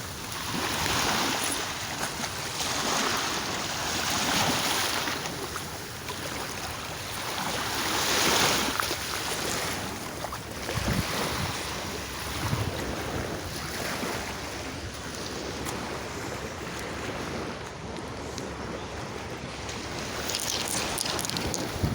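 Sea waves breaking and washing ashore, swelling every few seconds in the first half and steadier later, with wind buffeting the microphone.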